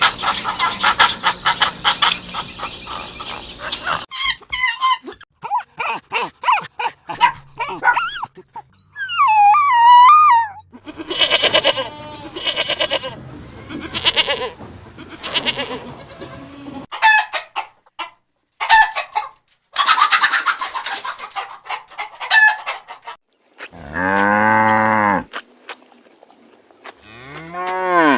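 A run of different animal and bird calls cut one after another, with farmyard fowl calls such as clucking and crowing among them. A long call with a rising-then-falling pitch comes about three-quarters of the way through.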